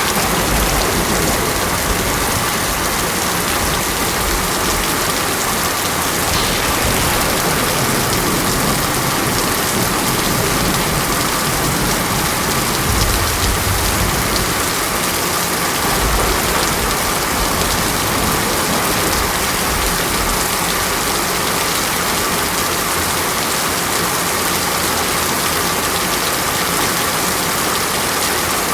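Steady, heavy rain falling on surfaces, an even hiss throughout, with a few low rumbles of distant thunder, a couple of them about halfway through.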